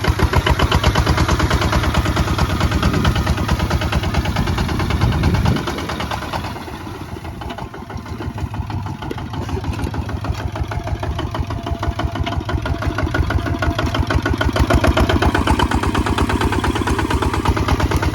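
Kubota ZT155 two-wheel tractor's single-cylinder diesel engine running, its firing heard as a rapid, even chug. It drops quieter about five and a half seconds in, then slowly builds back up.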